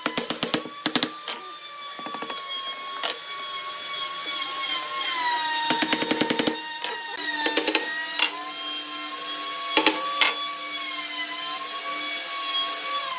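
A power tool's motor whining steadily, its pitch wavering and dipping as it loads up, then falling away just at the end. Several short bursts of rapid clicking rattle over it.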